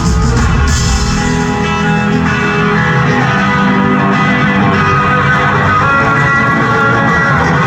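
Live rock band playing, with electric guitar lines out front over the band.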